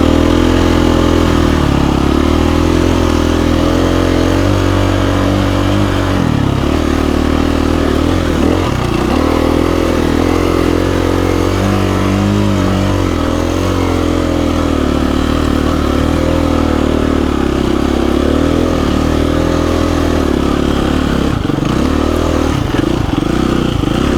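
2017 KTM 350 EXC-F dirt bike's single-cylinder four-stroke engine running under load on a steep trail climb, its pitch rising and falling again and again with the throttle.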